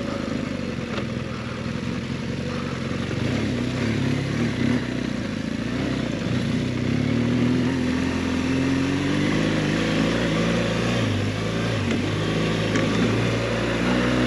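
BMW R 1200 GS flat-twin (boxer) engine pulling the bike over rocks off-road, the revs rising and falling with the throttle: a long climb in the middle, a drop, then another rise near the end.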